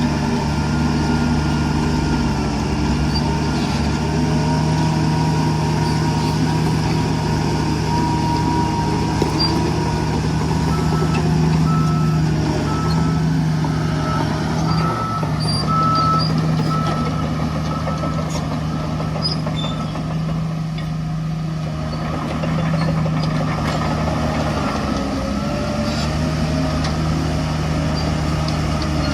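Heavy diesel construction machinery, dump trucks and bulldozers, running steadily. A reversing alarm beeps for several seconds around the middle.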